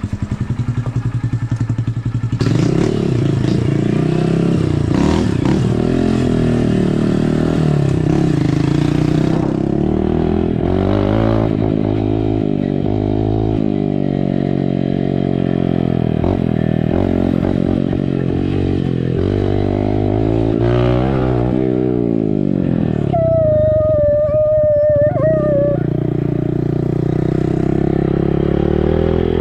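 Dirt bike engine revving up and down while being ridden, its pitch repeatedly rising and falling with throttle and gear changes. A steady high whine sounds briefly over it about three-quarters of the way in.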